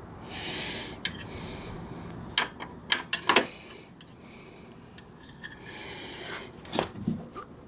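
Two rubbing, scraping strokes and a scatter of sharp clicks and knocks, the loudest a little over three seconds in, from hand work on a Jeep XJ door hinge's pin and bushings.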